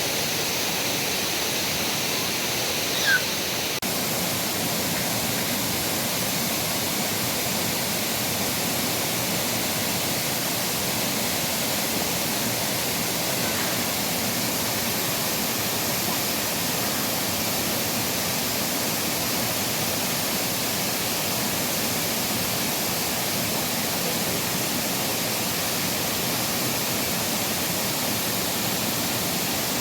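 Steady rushing of a waterfall, an even wash of falling water. A brief high-pitched sound cuts through about three seconds in.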